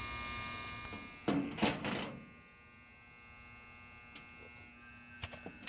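Air conditioner contactor buzzing steadily while the compressor and fan fail to start. About a second and a half in there are two or three short, loud handling noises, and a few light clicks come near the end.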